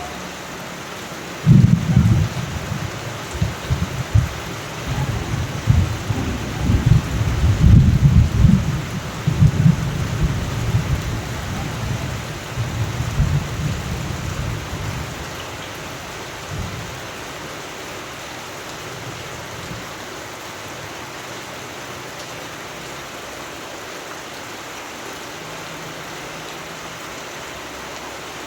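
Steady rain with a long roll of thunder. The thunder breaks in suddenly about a second and a half in, rumbles in surges for over ten seconds and dies away, leaving the rain alone.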